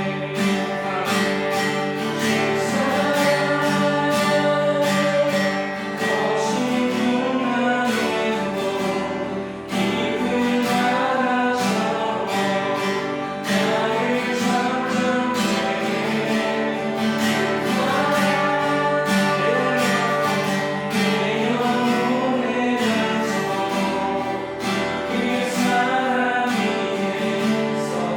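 Worship music: a group singing a worship song together, accompanied by strummed acoustic guitar.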